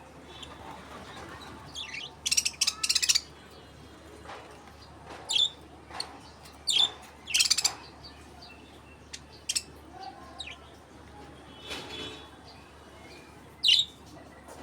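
Small pet parrots chirping and squawking: short, shrill calls at irregular intervals, a quick run of them about two to three seconds in.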